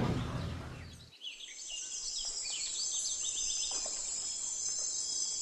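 A roar dies away in the first second. Then a steady, high chorus of cricket-like insects starts, with scattered bird chirps over it.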